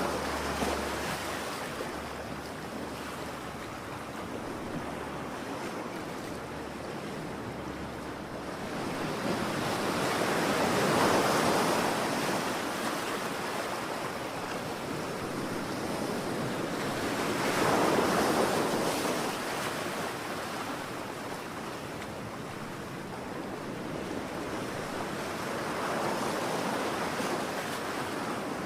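Ocean surf: waves breaking and washing in as a steady hiss that swells and ebbs, with a louder wave rolling in about every seven to eight seconds.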